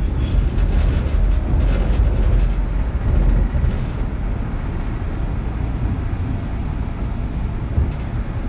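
Kintetsu 3200 series electric train heard from inside the car while running: a steady low rumble of the wheels and running gear on the track, with a few faint clicks in the first two seconds.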